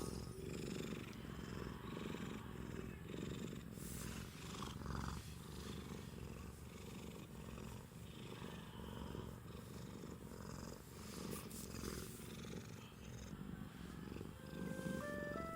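Domestic cat purring, a faint low rumble that goes on steadily. Music notes come in near the end.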